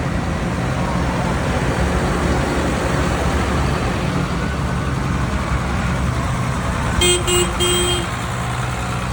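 Tractor engines running steadily as tractors drive past, with a few short horn toots about seven seconds in.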